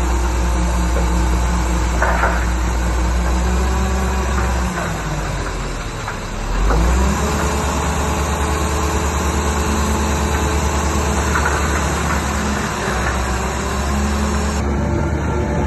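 Heavy diesel engine of an earthmoving machine running steadily. Its note drops about five seconds in, then picks back up and holds from about seven seconds.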